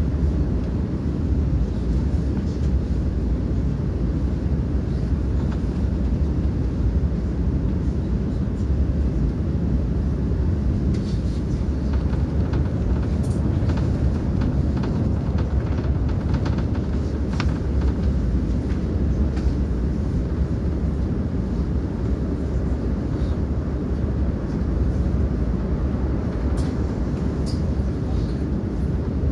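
Steady low rumble of a moving passenger train, heard from inside the carriage: wheels running on the rails at speed, with a few faint ticks in the middle and near the end.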